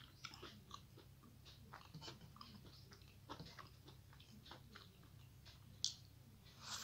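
Close-miked eating sounds: soft chewing and small wet mouth clicks, scattered and irregular, from a person eating rice with the fingers. A sharper, louder click comes about six seconds in and another just before the end as a handful goes into the mouth.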